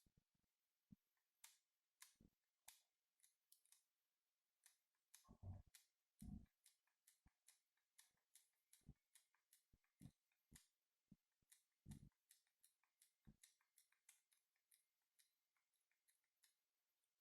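Near silence broken by faint, irregular small clicks, several a second at times, with a few soft knocks about five, six and twelve seconds in.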